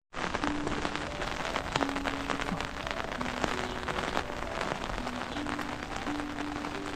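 Rain falling on a hard surface, a dense steady hiss of many individual drops hitting.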